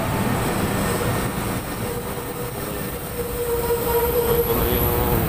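LRT light-rail train running along the track past the station platform, with a rumble of wheels on rail and a steady wheel squeal that grows louder about four seconds in.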